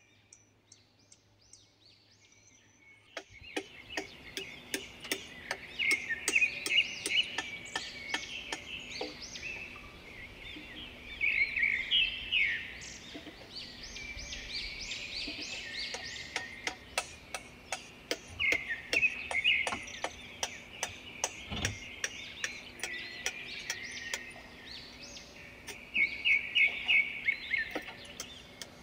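Songbirds singing and chirping in repeated trills, starting suddenly about three seconds in, with many short, sharp clicks or taps among them.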